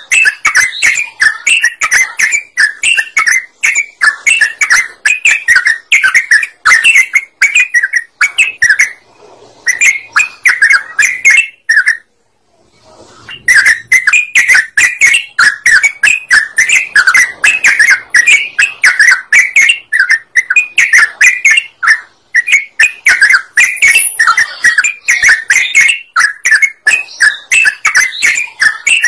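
Yellow-vented bulbul (trucukan) singing a fast, unbroken stream of loud bubbly chirps. The song stops for about a second and a half near the middle, then carries on.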